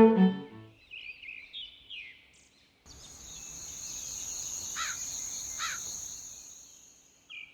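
Outdoor nature ambience: a few short bird chirps, then a steady high insect buzz that swells and fades, with two brief falling calls over it.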